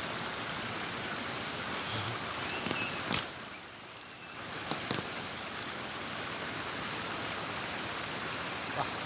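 Steady outdoor background noise with a faint, fast-repeating high insect chirp, and a couple of sharp clicks partway through.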